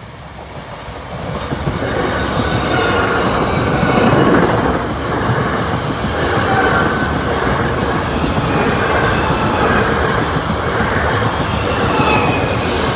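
A South Western Railway Class 458 electric multiple unit, two units coupled, passing close by. The noise builds over the first two seconds as the train arrives, then holds as a steady loud rush of wheels on rail as the carriages run past.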